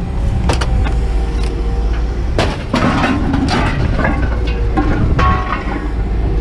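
Scrap metal clanging as it is tossed onto a scrap pile: several sharp impacts spread across a few seconds, over a steady engine rumble with a faint hum.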